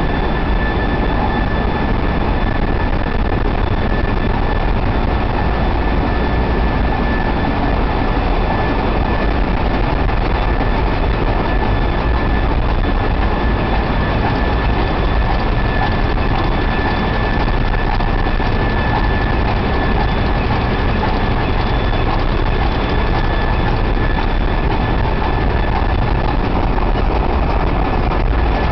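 Ship's engine-room machinery running: a loud, constant din with a low rumble and a steady high-pitched whine.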